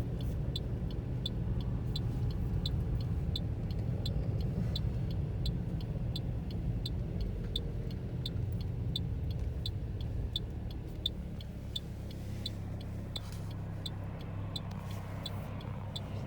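Car driving on a slick winter road, heard from inside the cabin: a steady low rumble of engine and tyres that eases about eleven seconds in. Throughout there is a regular high ticking, about one and a half ticks a second.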